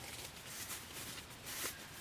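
Soft rustling and light handling noises, with a few brief scrapes; the loudest comes about a second and a half in.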